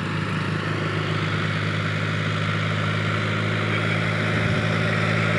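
Tractor engine running steadily with a low hum, slowly getting a little louder.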